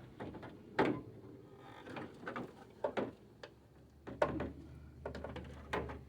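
Scattered knocks and clicks from hand work on a truck's front parking-light assembly: plastic and metal parts being handled, with about five sharp ones a second or so apart.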